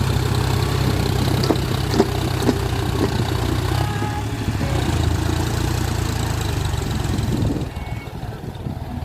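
John Deere 42 hp tractor's diesel engine running steadily while pulling a rotavator, with a few sharp knocks in the first few seconds. The engine sound drops away noticeably near the end.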